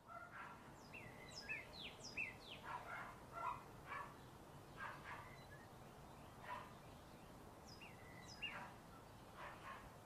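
Birds chirping: many short, downward-sweeping calls in quick clusters, over a faint steady background hiss, as in a morning birdsong ambience.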